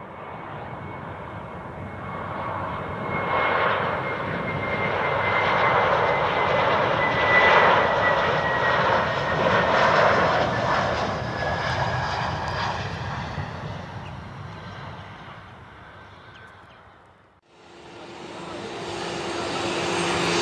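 A jet airliner passing: its engine noise swells, peaks and fades away, with a fan whine gliding slowly down in pitch as it goes by. Near the end the sound cuts out abruptly and another aircraft's engine starts rising, carrying a steady low hum.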